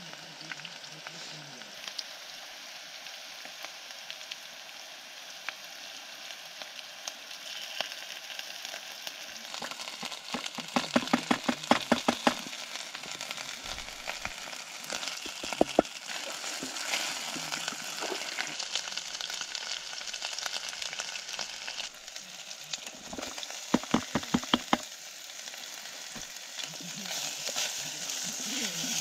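Onions and spices sizzling in a small steel pan over a camping gas stove, stirred with a wooden spatula. Twice, once around the middle and once near the end, come runs of quick knocks as the spatula clacks against the pan.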